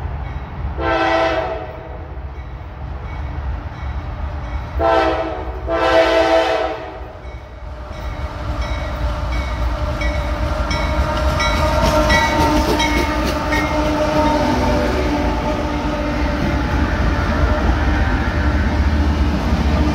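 Freight diesel locomotive horn sounding three blasts, the last two back to back, as the train approaches. Then the diesel locomotives' engines and wheels come up and pass close by, growing louder, with wheels clicking over the rail joints.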